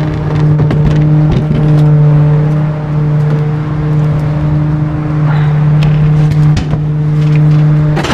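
Garbage truck engine running at a steady pitch, a constant hum with scattered clicks and knocks over it.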